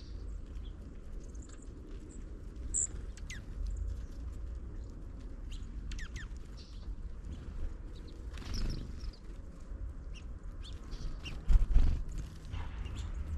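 House finches giving short, scattered chirps and quick falling call notes at a feeder, over a steady low rumble of wind on the microphone. A loud thump comes near the end.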